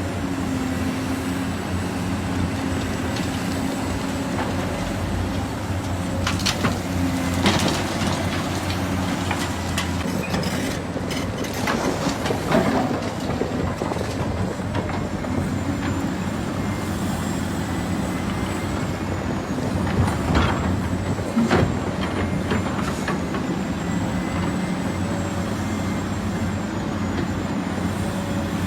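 Diesel engines of heavy construction machinery running steadily, with several sharp clanks and knocks from the machines working.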